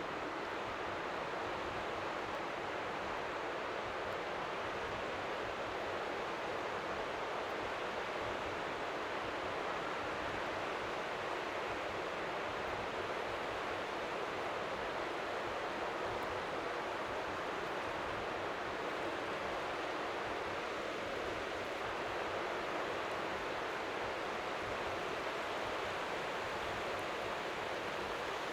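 Steady white-noise hiss of strong wind by the sea, with small waves lapping faintly on the shore underneath.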